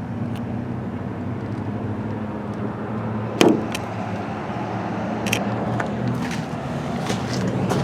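Car engine running at idle, a steady low hum, with a few sharp clicks over it.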